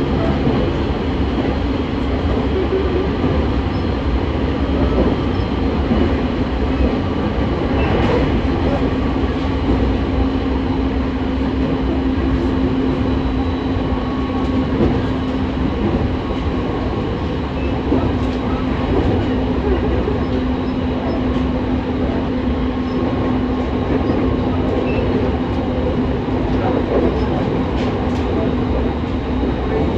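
JR East 209 series 2100-subseries electric multiple unit running at a steady speed: a constant low hum over the rumble of wheels on rail, holding the same pitch throughout. A sharp click stands out about a quarter of the way in and another near the end.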